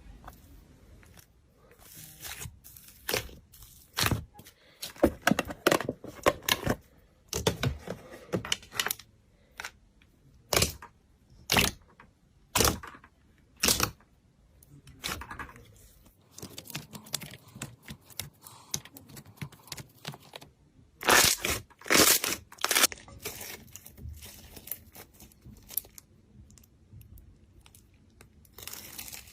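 Slime being squished and pulled apart by hand: a run of short, irregular sticky crackles and pops, some loud, with a tight cluster about twenty-one seconds in.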